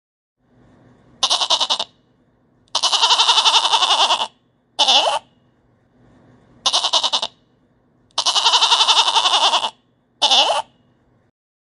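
Lambs bleating: a short bleat, a long quavering bleat and another short one, then the same three again.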